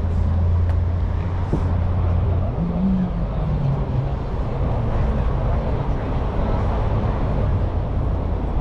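Car engines running at a car meet: a steady low engine rumble, with a higher engine note briefly rising and falling about three seconds in.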